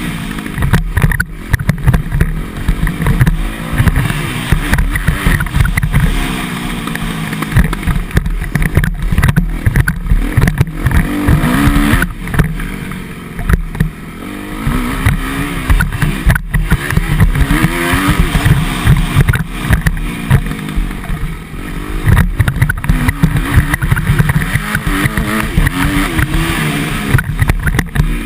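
Motocross bike engine revving, its pitch rising and falling again and again as it is ridden. Heavy wind rumble and knocks hit the action-camera microphone.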